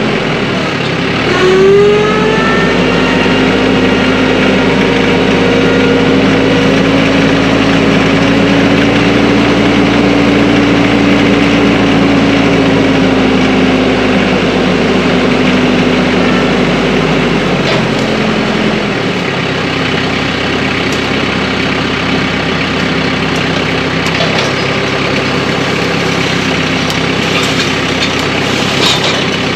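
Compact tractor's diesel engine running steadily, its pitch rising about two seconds in and holding a higher tone until about seventeen seconds, then settling lower.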